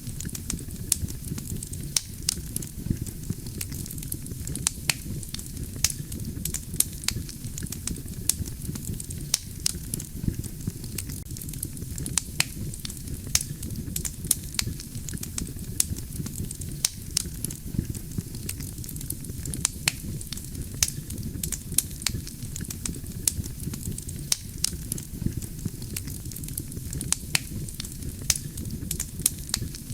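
Wood fire burning: dense, irregular crackling of burning logs with frequent sharp pops, over a steady low rumble of the flames.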